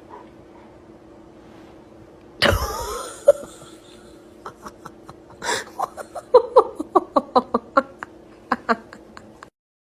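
A faint steady hum, then one sudden loud cry about two and a half seconds in, followed by a run of short, quick vocal bursts, several a second, that stops near the end.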